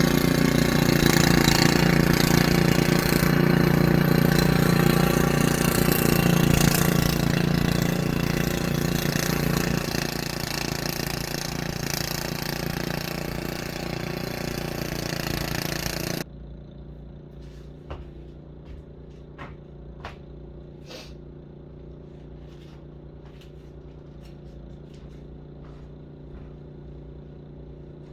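An engine running steadily, easing slightly partway through, then cutting off abruptly just past halfway. After that come a few faint clicks and knocks over a low background.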